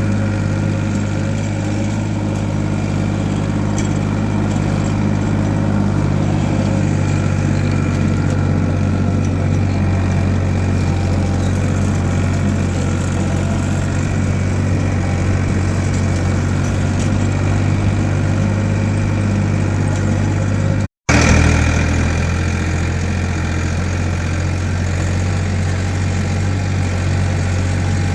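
Farm tractor's diesel engine running steadily with a low hum. The sound cuts out for a split second about three-quarters of the way through, then resumes.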